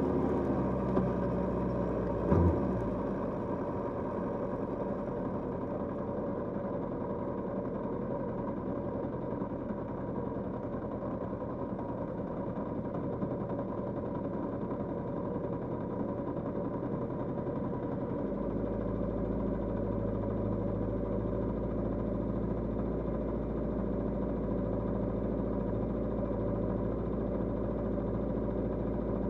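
Kawasaki GPZ550's air-cooled inline-four engine running steadily at low revs, most likely idling. There is a single knock a couple of seconds in, and a deeper rumble joins about two-thirds of the way through.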